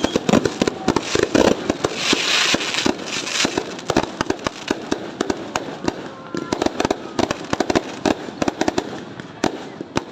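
Fireworks going off: a dense, irregular run of bangs and crackling pops, with a burst of hiss about two to three seconds in.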